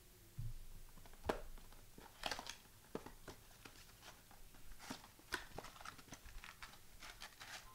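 Trading-card packs and cards being handled: soft crinkling of foil wrappers and cards sliding and tapping, a scatter of short rustles and clicks.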